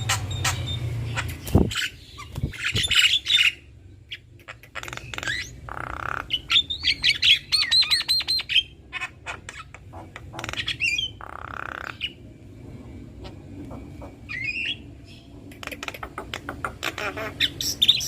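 Javan mynas, a male and a female, calling together: rapid clicking and chattering, harsh rasping squawks, and a quick run of whistled notes.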